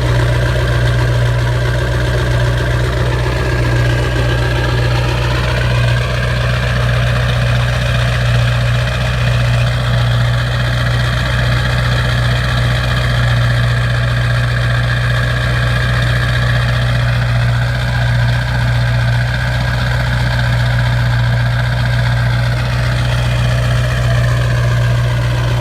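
2002 Ford F-350's 7.3 Powerstroke V8 turbodiesel idling steadily while warming up after a cold start. A higher whine above the low drone shifts up in pitch about six seconds in and comes back down near the end.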